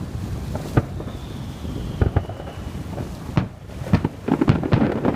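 Fireworks shells bursting in the air: single bangs a second or so apart, then a rapid cluster of bangs near the end, with a faint falling whistle in the first half. Wind noise on the microphone runs under it all.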